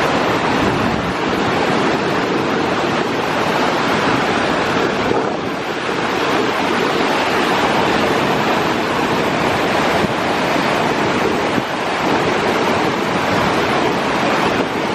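Tvindefossen waterfall: a steady, loud rush of falling water.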